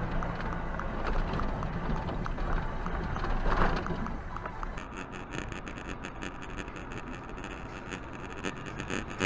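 Vehicle and road noise, a steady rumble with one louder swell about three and a half seconds in, then a rapid fine crackle through the second half.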